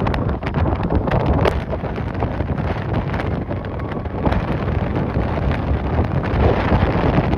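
Strong gusty wind buffeting the microphone: loud, unbroken low buffeting with scattered crackles.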